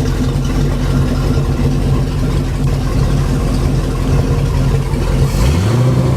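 MerCruiser 5.0 marine V8 engine, out of the boat, idling steadily, then revved up sharply about five seconds in and held at higher revs.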